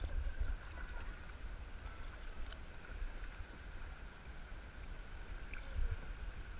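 Kayak on a river: low uneven rumble with a few light knocks, over a steady high thin tone.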